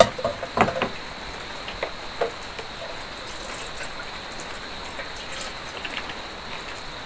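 Steady heavy rain, with a few metal clinks and knocks in the first second as a kettle is set on a portable gas stove. Then water is poured from a plastic bottle into the kettle.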